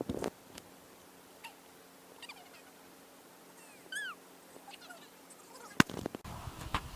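A few faint, short animal calls, each note bending up and down in pitch, with the clearest about four seconds in. A couple of sharp knocks come at the start and near the end.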